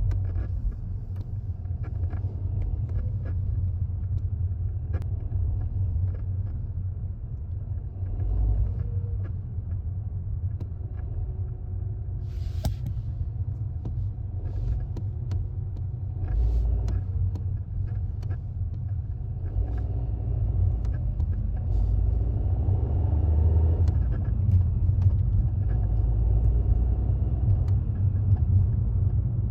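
2016 Audi TT Mk3 driving on light throttle, a steady low rumble with scattered light clicks and a chattering from the driveline. The chatter comes from a worn transmission mount and is worst with the engine cold.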